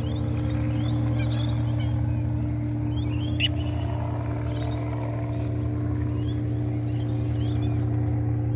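A steady low mechanical hum, like a motor running, with many high, short bird chirps and peeps scattered over it.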